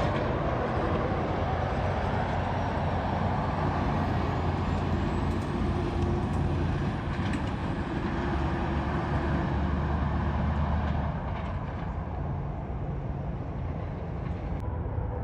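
Heavy road traffic: the steady low drone of big-rig diesel engines with a dense rumble of tyre and road noise, easing slightly after about eleven seconds.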